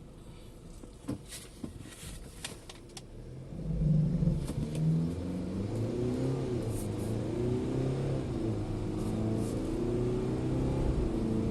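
MG Gloster's 2.0-litre diesel engine accelerating hard from a standstill. About four seconds in it comes in under full load, then climbs in pitch through each gear and drops back at the upshifts. A few light clicks come before it.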